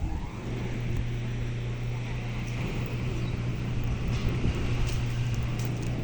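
An engine running steadily, with a constant low hum over rushing background noise, most likely the repaired fishing boat's engine.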